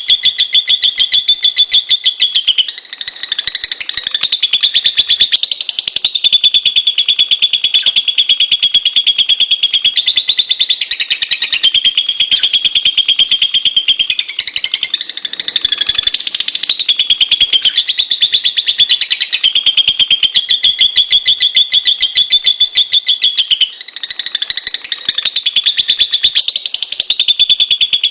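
Lovebird chattering in a fast, unbroken stream of high-pitched chirps, with brief dips about three seconds in and near the end.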